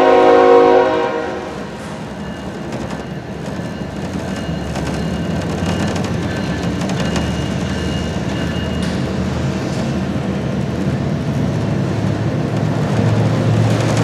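BNSF freight diesel locomotive's air horn chord cutting off about a second in, followed by the locomotive's engine rumble slowly growing louder as the southbound freight train approaches.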